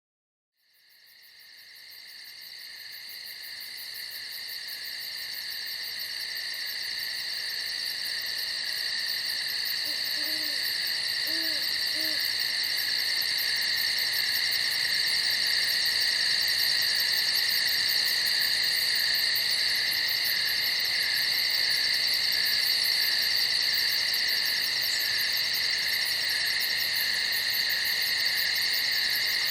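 Night chorus of crickets trilling steadily in several high pitches, fading in from silence over the first dozen seconds. About ten seconds in come three soft, low hoots.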